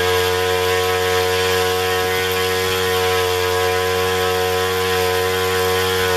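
Zenoah GT80 two-stroke twin-cylinder engine with propeller, running steadily at high throttle, a loud even engine note. Its pitch begins to fall at the very end as the throttle comes back.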